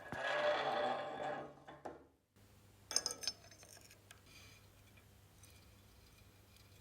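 Workshop hand work on parts: a scraping or rubbing sound for about two seconds that cuts off abruptly, then a quick cluster of small, hard clinks with a bright ring, followed by faint light ticking.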